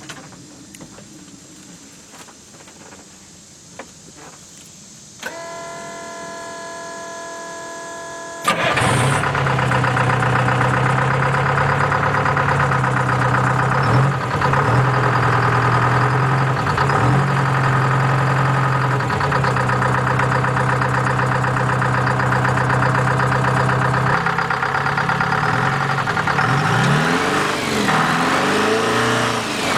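Detroit Diesel 4-53T two-stroke turbo diesel being started: a few clicks, then a steady whine for about three seconds, then the engine fires and runs steadily. It is revved up and down a few times near the end.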